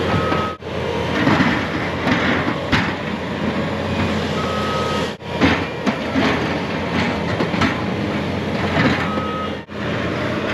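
Snowplow truck running with a steady rumble and rattle, in three short pieces cut together abruptly, each with a brief high beep shortly before its cut.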